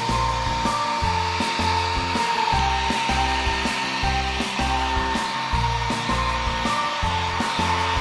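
Philips hair dryer running steadily, a blowing hiss with a constant whine, while drying a wet cat's fur, under background music with a steady beat.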